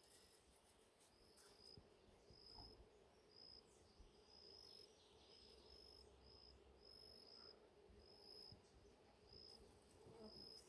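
Faint insect chirping: short high chirps repeating irregularly about once or twice a second over a faint steady low hum.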